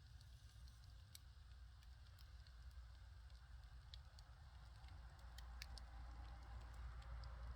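Firewood fire crackling faintly, with scattered sharp pops a few times a second over a low rumble that swells slightly near the end.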